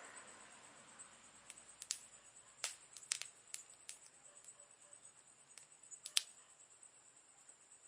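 Campfire crackling: wood burning with irregular sharp pops and snaps, the loudest a little after six seconds in, over a faint steady high-pitched hiss.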